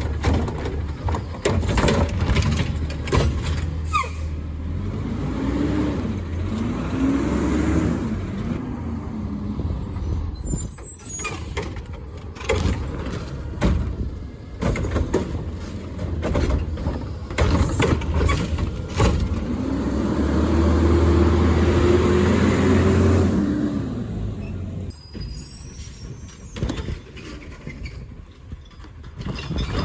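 Garbage truck at work: its diesel engine revs up and down twice while the hydraulics run, with repeated clanks and knocks of the lifting gear and bin, and an air-brake hiss.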